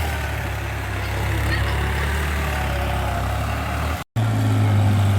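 Farm tractor engine running steadily with a low hum. About four seconds in, the sound cuts out completely for an instant, then comes back slightly louder.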